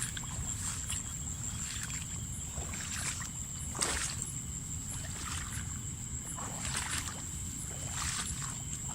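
Water swishing and sloshing around a small boat as it is moved along, with soft strokes roughly every second, over a steady high insect trill.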